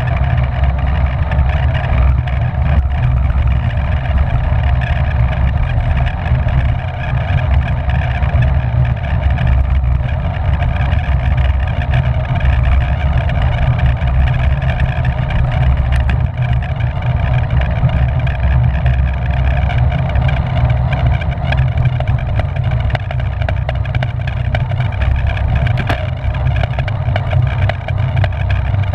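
Steady wind rushing over the microphone of a camera on a racing bicycle ridden at race speed, with a heavy low rumble.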